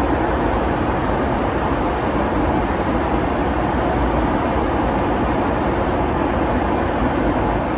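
Steady cabin noise inside a Boeing 757-200 airliner: the even rush of engines and airflow, with a faint thin high whine over it.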